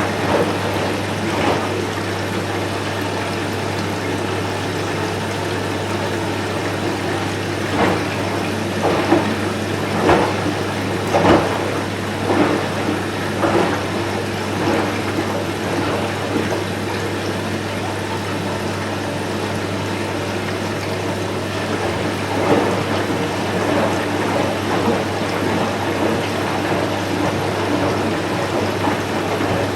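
Candy Smart Inverter front-loading washing machine running a wash cycle: water filling and sloshing in the turning drum over a steady low hum, with irregular louder splashes.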